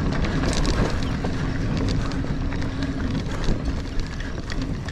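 Mountain bike (a Niner Air 9 RDO 29er) ridden fast over loose dirt singletrack: knobby tyres rumbling on the trail, the bike rattling with frequent small clicks and knocks, and wind across the microphone. A steady low hum runs for the first three seconds or so, then fades.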